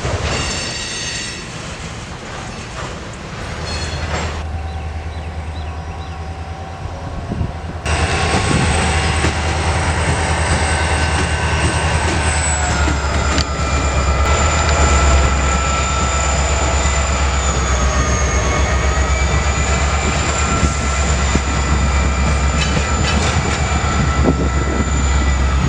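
Freight train moving through a rail yard: a diesel locomotive's low steady drone, with high, drawn-out wheel squeal from about eight seconds in.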